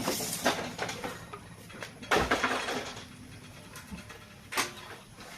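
A few knocks and clatter from work on a steel frame being welded, the loudest about two seconds in, over a steady low hum.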